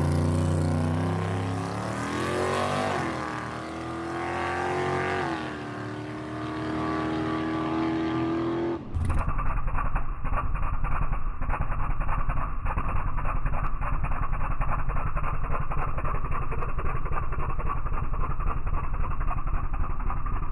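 A drag-race engine under power, its pitch climbing in two sweeps and then holding steady. About nine seconds in it cuts abruptly to a close, choppy engine running at low speed with rapid uneven pulses.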